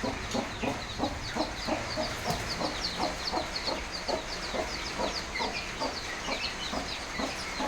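Mother hen clucking steadily, about three short clucks a second, with her chicks peeping in quick, high chirps over it.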